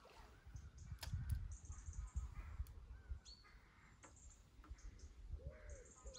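Waterside birds calling: a few short calls, then a longer call that rises and falls in pitch near the end. Under them runs a low, uneven rumble, and there is a sharp click about a second in.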